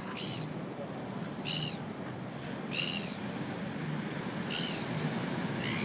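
Gulls calling: about five short, high-pitched calls, each falling in pitch, spread over a few seconds above steady background noise.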